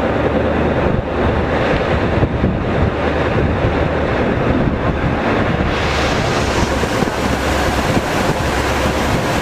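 Wind buffeting the microphone over rushing water and a steady low hum from a boat's engine.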